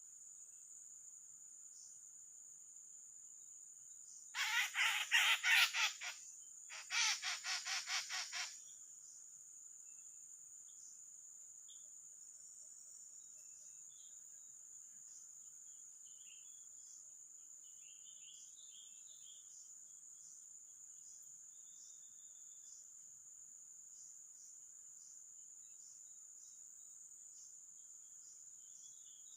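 Drongo giving two bursts of harsh, rapid, loud calls a few seconds in. A steady high insect drone runs underneath, with faint chirps of other birds later.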